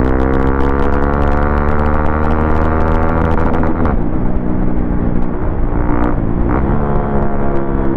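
Modified Hero XPulse 200's single-cylinder engine running under way. Its pitch climbs steadily for about four seconds, drops suddenly, then rises and falls back a few more times.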